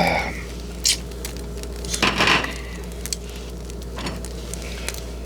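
Eating at a table: a few short clicks and rustles, such as chopsticks and tableware, over a steady low hum.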